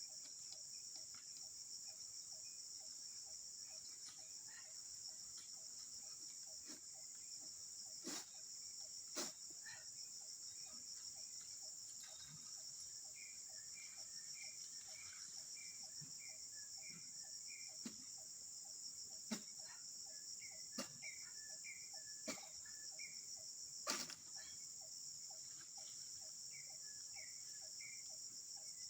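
Steady high-pitched insect chorus, cricket- or cicada-like, with series of quick bird chirps and a few sharp clicks or snaps scattered through.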